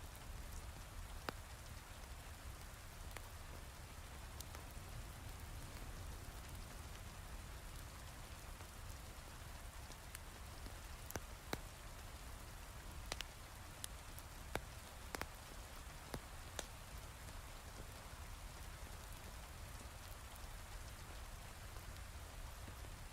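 Steady heavy rain falling, with a few sharp pops from a crackling wood fire in a fireplace, one early and several close together around the middle.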